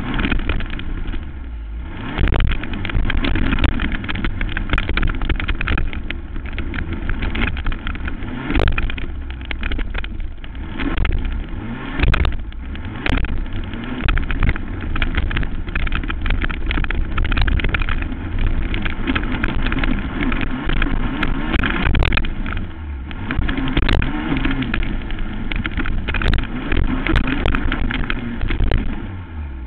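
Racing quad (ATV) engine running hard, its level swelling and dipping as the throttle is worked, under heavy noise with frequent sharp knocks throughout.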